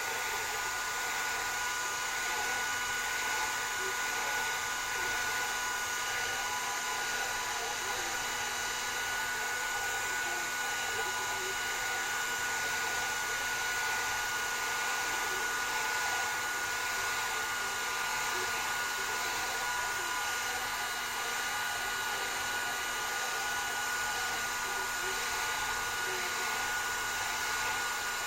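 Hair dryer blowing steadily, a rush of air with a steady high whine over it.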